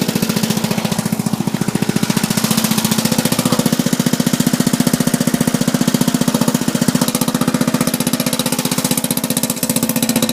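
Murray riding lawn mower engine running steadily with a rapid, even chugging pulse.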